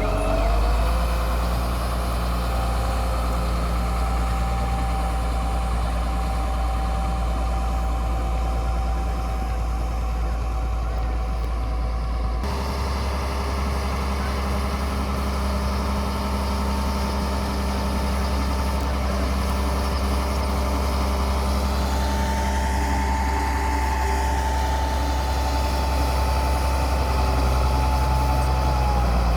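Caterpillar motor grader's diesel engine running steadily as the machine works, its pitch rising briefly at the start. The sound changes abruptly about twelve seconds in.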